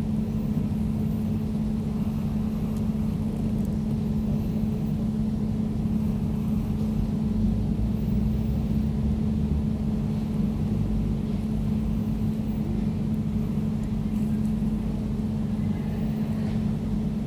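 Air conditioner running: a steady low hum with a held tone over a low rumble.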